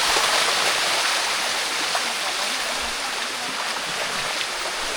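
Steady rush of water pouring down a waterfall's cascade.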